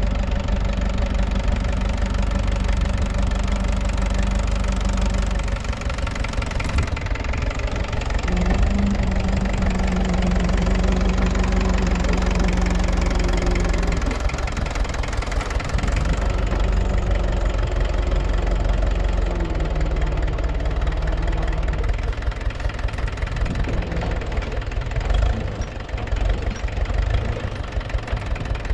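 Tractor diesel engine running hard under load, its pitch rising about eight seconds in and falling back around fourteen seconds, then varying in uneven surges near the end as it works to free the tractor from being stuck.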